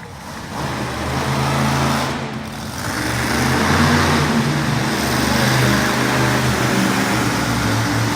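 Monster truck engine running hard, its drone swelling about half a second in and growing louder from about three seconds in, then holding steady.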